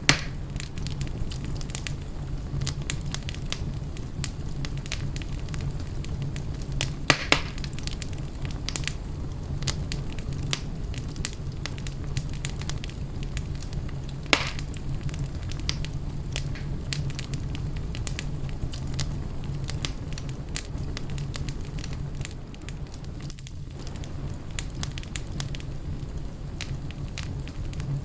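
Fire burning in a fireplace, with a steady low rumble under frequent small crackles. There are two louder pops, about seven seconds in and about halfway through.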